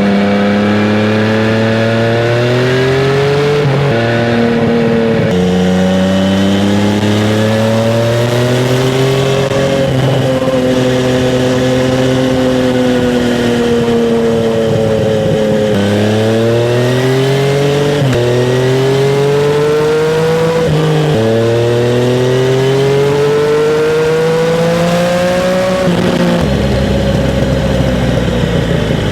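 Yamaha MT-09 Tracer's three-cylinder engine through a Roadsitalia Special Carbon aftermarket exhaust, accelerating hard. The note climbs and drops sharply with each of several upshifts, then falls away as the bike slows near the end.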